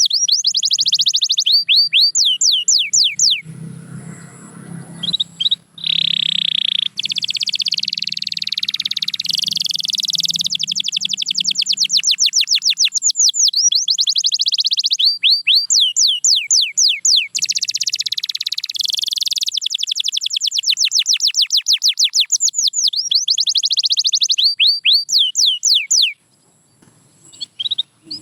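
Domestic canary singing a long song of rapid repeated notes, each a quick falling sweep, alternating with dense buzzing rolls. It breaks off briefly a few seconds in, then sings on until it stops near the end.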